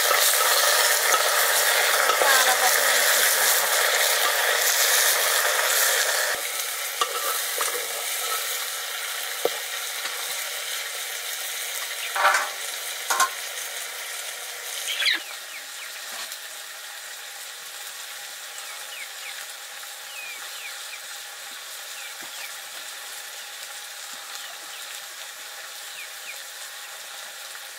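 Food sizzling as it fries in a pan while being stirred. The sizzle is loud for about the first six seconds, then drops suddenly to a softer, steady sizzle, with a few short knocks from the stirring utensil near the middle.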